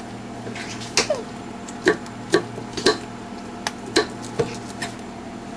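A series of sharp, irregular clicks and knocks, about eight of them, over a steady low hum.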